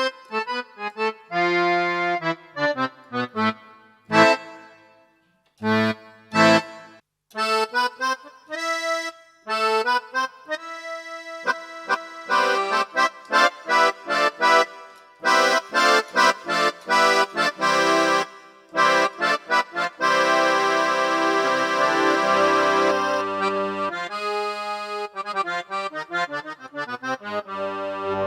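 Casio AiX-sound electronic keyboard played with an accordion tone: melodic phrases and chords, short detached notes at first, then longer held chords over a low bass note.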